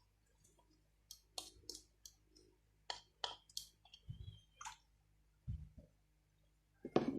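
Scattered clicks and clinks of utensils and dishware being handled while instant noodles are served onto a plate, with a few low thumps and the loudest clatter near the end.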